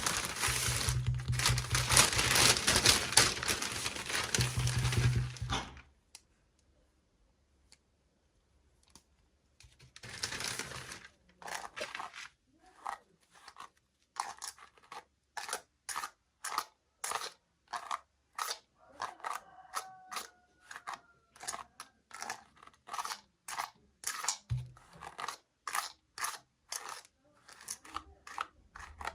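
Plastic toy packaging crinkling and tearing as it is opened for about six seconds, with another short rustle at about ten seconds. After that comes a long run of short plastic clicks and taps, roughly one or two a second.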